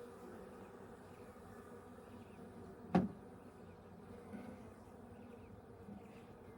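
Honeybees humming steadily around an open hive, with one sharp knock about three seconds in.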